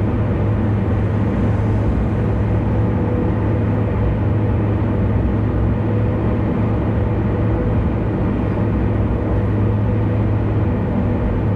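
Steady road noise of a car cruising on an expressway: a constant low hum with tyre and wind noise over it, with no change in speed or load.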